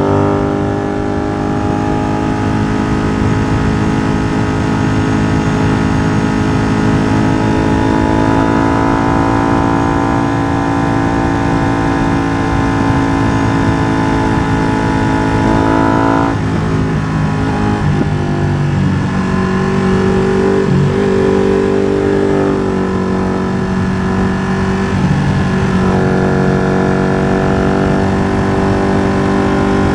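Ducati Streetfighter V2's 955 cc L-twin engine through an open MIVV exhaust with the dB killer removed, ridden on track. Its pitch climbs slowly for about 16 seconds and then drops sharply. For about ten seconds after that the note is uneven, with dips and short jumps, and from about 26 seconds it runs steadily again.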